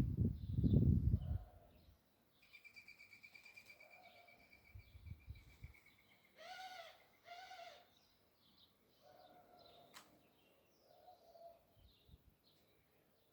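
Doves cooing in low, arched notes, the two loudest about six and a half and seven and a half seconds in, with small birds chirping and a thin high trill from about two to five seconds in. A loud low rumble of wind or handling on the microphone covers the first two seconds.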